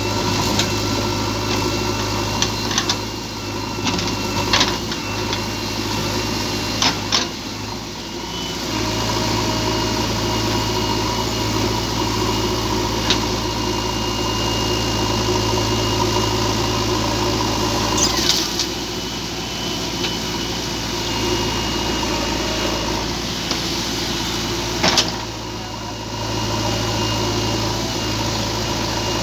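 JCB backhoe loader's diesel engine running steadily, with several sharp metallic clanks scattered through.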